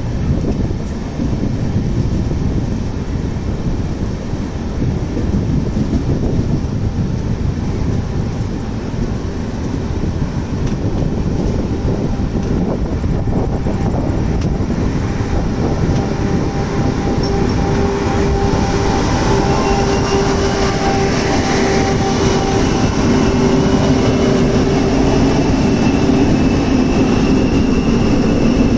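Train moving on the rails with a loud, steady rumble; from about halfway a steady whine joins in and grows louder toward the end.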